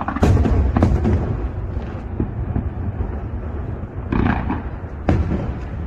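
Fireworks exploding: two sharp bangs in the first second, then two more about four and five seconds in, over a steady low rumble.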